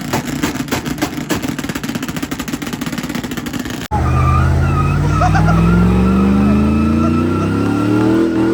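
Truck engines at a truck meet: for about four seconds an engine runs hard with a rapid pulsing exhaust, then after an abrupt cut an engine revs with a steadily climbing pitch, with thin squeals above it.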